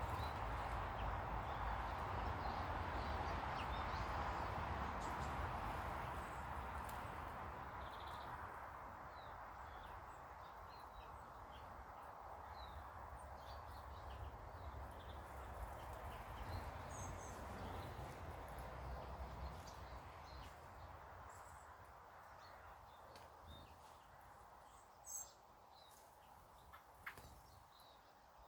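Small garden birds giving short, scattered chirps over a steady outdoor background rush that slowly fades; a couple of sharper chirps near the end.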